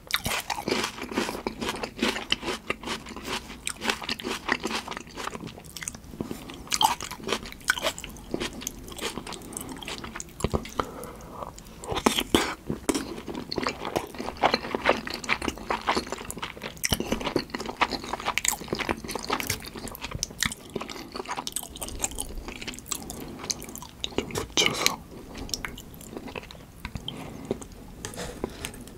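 Close-miked chewing of salmon sushi with tartar sauce: a dense, uneven run of small mouth clicks.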